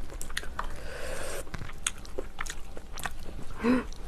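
Close-miked mukbang eating: chewing and biting with sharp wet clicks and crunches, a short slurping hiss about a second in, and a brief throaty vocal sound near the end, the loudest moment.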